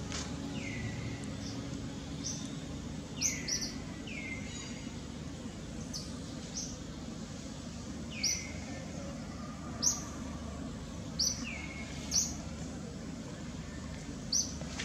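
Bird calls in the forest canopy: short, sharp high chirps, some sweeping downward in pitch, repeated every second or two, over a steady low background hum.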